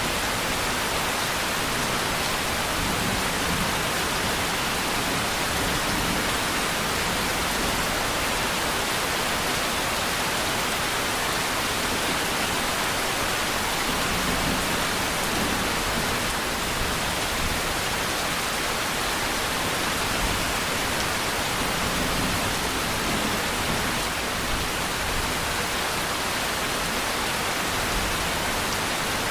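Steady rain falling, a dense, even hiss without distinct drops.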